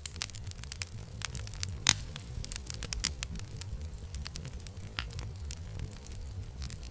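Campfire crackling, with scattered sharp pops of burning wood over a steady low rumble. The loudest pop comes a little under two seconds in.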